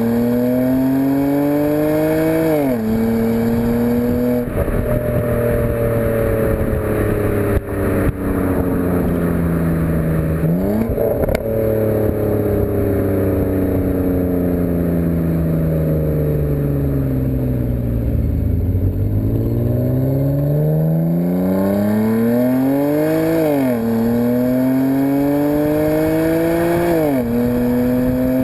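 BMW E90 328xi's inline-six running through a BMW Performance exhaust as the car drives under an automatic transmission. It accelerates and upshifts about three seconds in, then engine speed falls slowly for some fifteen seconds with a brief rise around eleven seconds in. From about nineteen seconds in it accelerates again, with upshifts at about twenty-three and twenty-seven seconds in.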